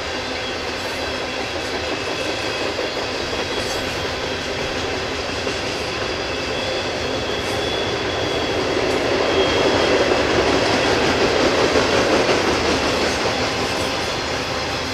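Freight train cars rolling steadily past on the rails, growing louder for a few seconds in the middle.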